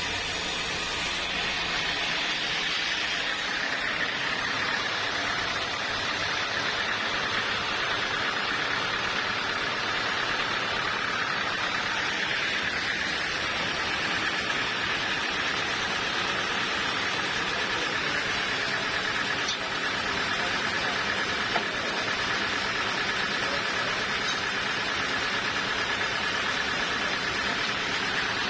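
Sawmill machinery running steadily, a continuous mechanical drone with a constant high hum and no breaks.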